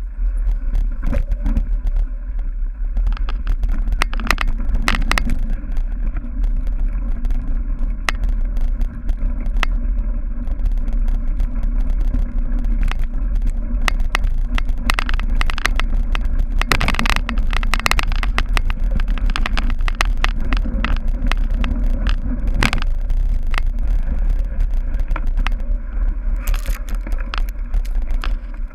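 Cyclocross bike ridden hard over rough dirt and grass: a steady low wind rumble on the microphone, with frequent clicks and rattles from the bike jolting over the ground.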